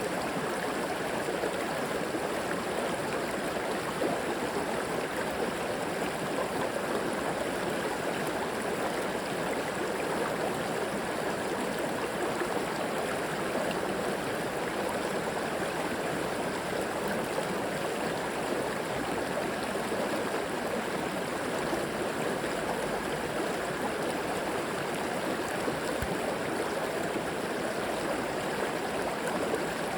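River water flowing and gurgling over stones in a steady, even rush.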